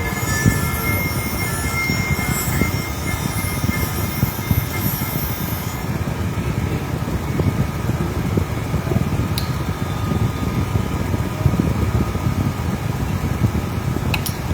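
Loud, steady workplace machinery noise: a dense low rumble that runs on without a break.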